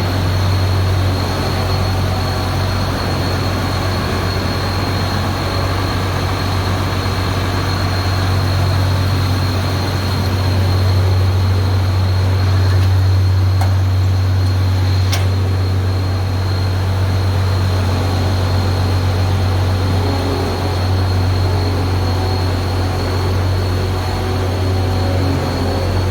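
Combine harvester's engine running steadily, a low drone with a steady high whine above it. Two faint clicks about halfway through.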